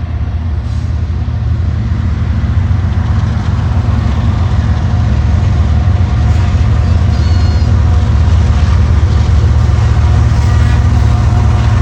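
Freight train's diesel locomotive running loud and steady with a heavy low rumble, growing a little louder over the first few seconds.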